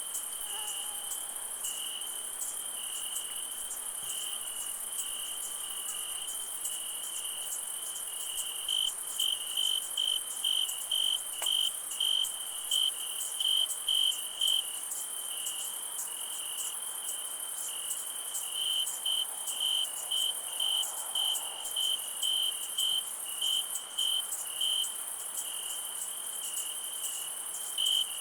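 Crickets: a steady high trill, joined about a third of the way in by one louder cricket chirping in regular pulses a little under two a second, which pause briefly and then resume. A high, even insect hiss sits underneath.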